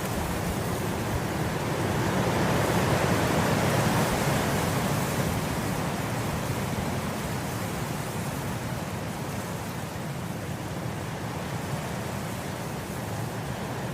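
Wind blowing through grass, a steady rushing that swells about two to five seconds in, then eases back.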